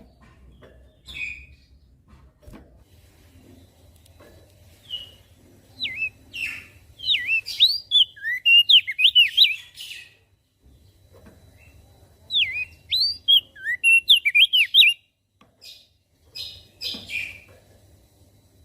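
Opior jambul (crested dark-eye) singing: two fast phrases of quick, up-and-down whistled notes, the first about six seconds in and the second about twelve seconds in, each lasting about three to four seconds. Scattered single chirps come in between.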